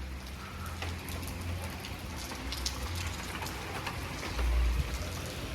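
Rain falling and pattering on surfaces, with scattered drip ticks through a steady hiss. A low rumble on the microphone swells louder about four and a half seconds in.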